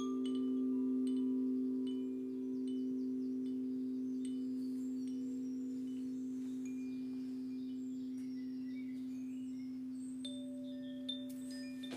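A singing bowl ringing with a steady, slowly fading low hum, scattered short high chime tinkles sounding over it. Near the end a new, higher tone comes in.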